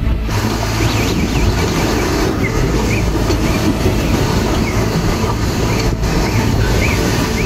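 Storm wind and rain making a loud, steady rushing roar, with low rumbling wind buffeting on the microphone and faint short high chirps now and then.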